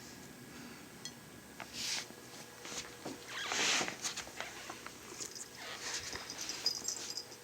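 Cat batting and pawing at a shallow water bowl and its toy fish: three soft swishes and scattered small clicks and taps.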